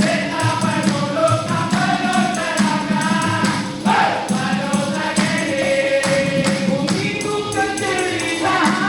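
A group of voices singing together in held, wordless-sounding chorus lines over a steady beat of hand percussion.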